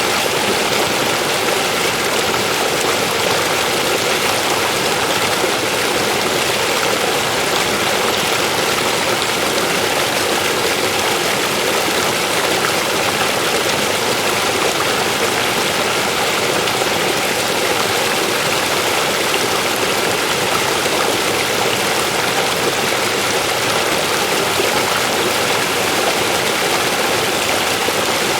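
A river flowing over rocks, a steady, unbroken rush of water.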